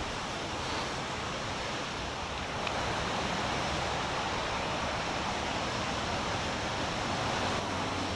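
Steady rush of water running down a water slide, an even splashing hiss that grows a little louder about three seconds in.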